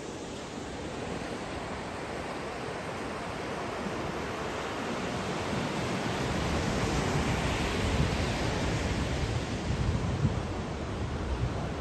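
Ocean waves washing on the shore, the surf swelling to its loudest about two-thirds of the way through, with some wind rumble on the microphone.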